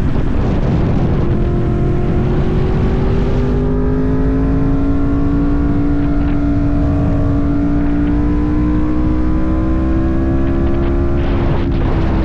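Yamaha MT-10's crossplane inline-four engine pulling the bike along. Its steady note dips briefly at the start, then climbs slowly and evenly in pitch as the bike gathers speed.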